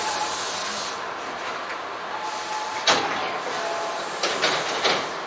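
Stopped electric commuter train heard from inside its cab: a steady background noise, broken by one loud clunk about three seconds in and a few sharp clicks near the end.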